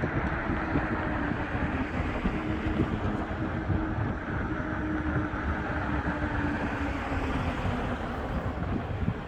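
Outdoor traffic-and-wind ambience: a steady engine hum that dips slightly in pitch and fades out about three-quarters of the way through, over a rumbling wash of wind on the microphone.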